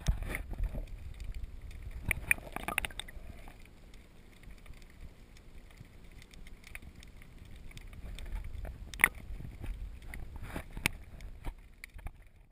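Wind buffeting the microphone and choppy water slapping against a kayak's hull, with a low rumble throughout and several sharp knocks, the loudest about nine seconds in.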